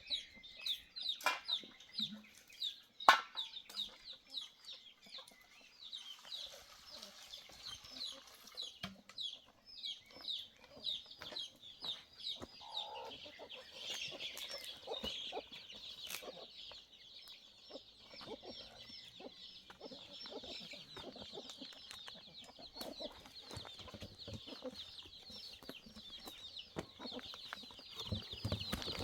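Chickens clucking and peeping: a dense, unbroken run of short high calls, with a few scattered knocks.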